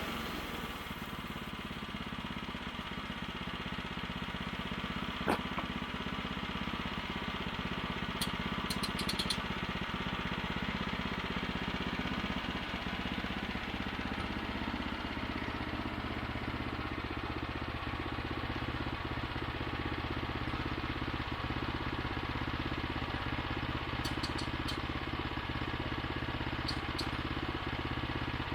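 Small gasoline engine of a Woodland Mills bandsaw mill running steadily, with a few light clicks.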